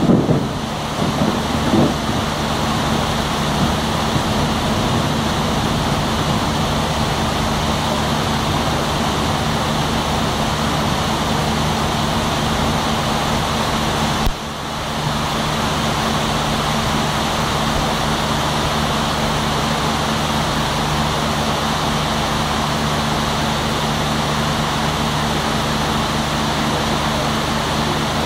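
Heavy tropical rain falling steadily, with several power generators running under it as a steady low hum. The whole sound dips briefly about halfway, then carries on unchanged.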